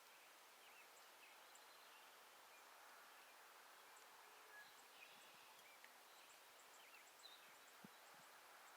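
Faint outdoor ambience with a few scattered, brief, faint bird chirps and small ticks.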